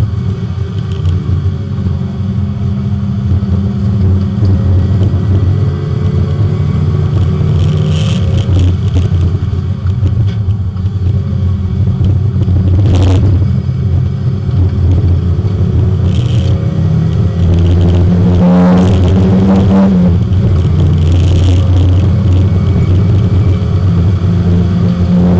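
Porsche 924 race car's four-cylinder engine heard from inside the cabin, running hard on track, its note rising and falling with acceleration and gear changes. A few short knocks come through along the way.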